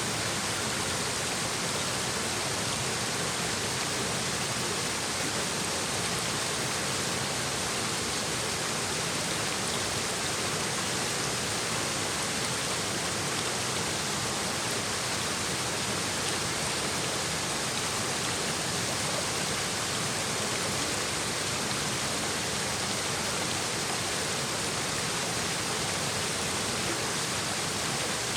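Shallow mountain stream babbling and splashing over rocks, a steady, even rush of water that runs on without change.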